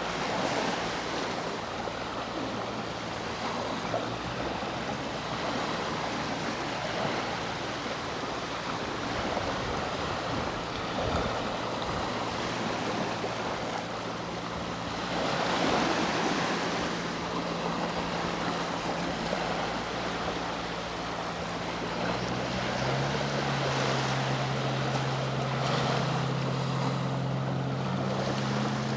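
Sea waves washing in and drawing back on the shore, swelling louder a few times. Under them is a low, steady hum from a boat's engine, which grows louder near the end.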